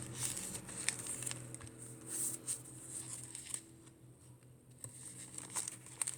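Paper pages, tags and pockets of a handmade junk journal being handled and turned: light rustling with a few short clicks and taps, over a low steady hum.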